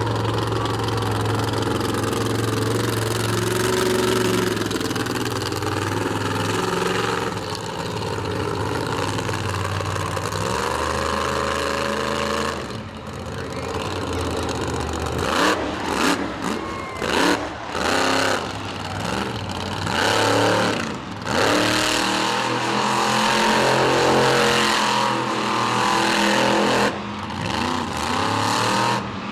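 Monster truck engine running loud, first fairly steady with slow changes in pitch, then revving hard in a string of quick bursts that rise and fall from about halfway through.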